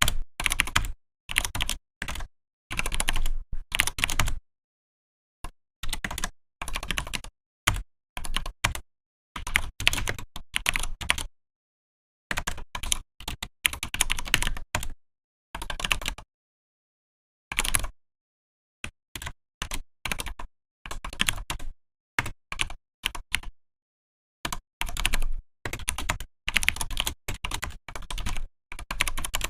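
Typing on a Vortex PKX-1040 Type F keyboard: quick runs of key clicks in bursts of one to two seconds, broken by short pauses of silence, with a longer pause about two thirds of the way in.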